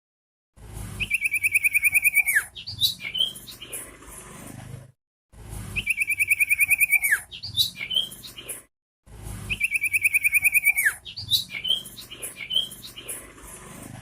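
Common iora singing: a fast trill of about ten notes a second that ends in a downward slide, followed by a few short chirps, heard three times over in the same form.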